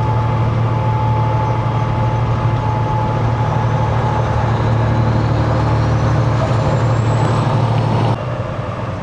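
Semi truck's diesel engine running steadily under way, heard from inside the cab, with a faint high whine rising in pitch over several seconds. The engine sound drops off abruptly near the end.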